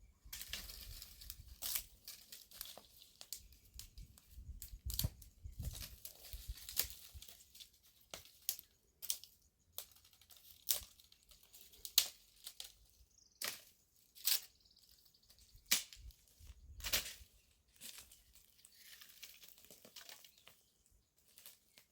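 Irregular crackling and rustling, with many sharp clicks spread unevenly, like dry material being handled, torn or crumpled.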